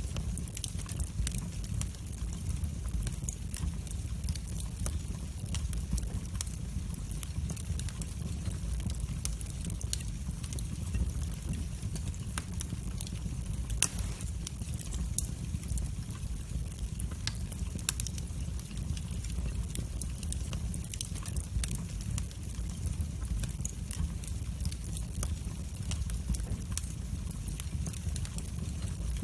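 Wood fire burning in a fireplace: a steady stream of small crackles and pops over a low rumble, with one louder crack about halfway through.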